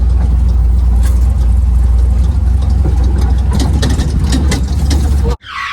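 Race truck running hard off-road, heard from inside the cab: a loud, steady low rumble of engine and drivetrain with frequent rattles and knocks. Near the end the sound cuts out abruptly for about half a second, leaving only a brief high-pitched sound, then the rumble resumes.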